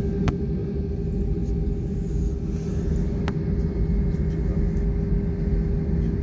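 Airliner cabin noise while the plane taxis before takeoff: a steady low rumble with an even engine hum held on one tone. Two short clicks come through, one right at the start and one about three seconds in.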